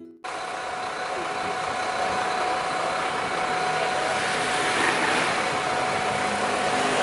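Tourist road train running, a steady engine and road noise with a thin steady tone through it; it cuts in abruptly just after the start.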